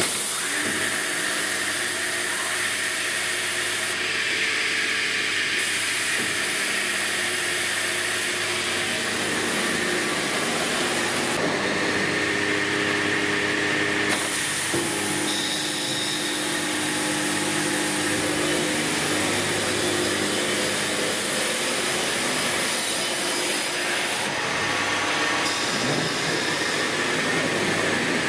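HolzHer Cut 70 6110 pressure-beam panel saw running, a steady machine noise with a few tones in it. The high hiss shifts in level a few times.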